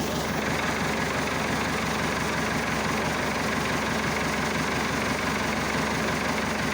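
Massey Ferguson Super 90 diesel tractor engine idling steadily while still cold.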